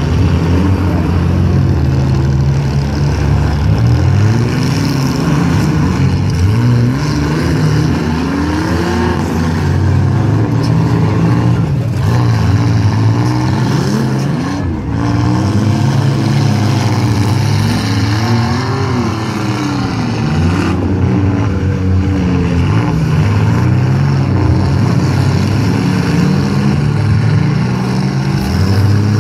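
Several demolition-derby compact cars' engines running and revving up and down together. Their pitch rises and falls over and over as the cars drive and ram around the arena.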